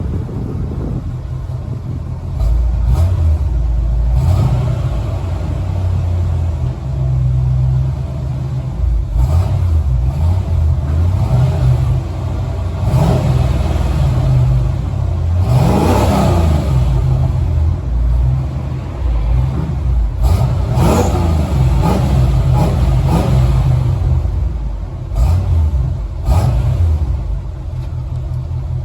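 Chevy V8 engine in a Range Rover, heard through a Walker Quiet Flow muffler, pulling under throttle with its low exhaust note rising and falling in pitch several times, most plainly about halfway through.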